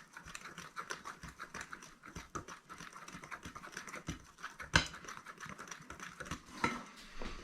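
A utensil beating meringue mixture of egg whites and icing sugar by hand in a bowl: fast, steady clicking and tapping against the bowl, with one louder knock about halfway through.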